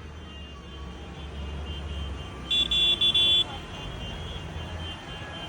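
Low, steady rumble of passing tractor engines. About two and a half seconds in, a vehicle horn toots in three quick blasts.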